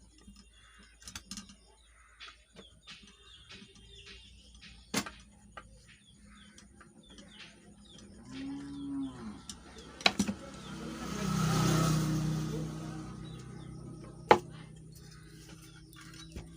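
A cow mooing: a short call about eight seconds in, then one long low moo that swells and fades over about three seconds. A few sharp clicks and knocks sound before and after it.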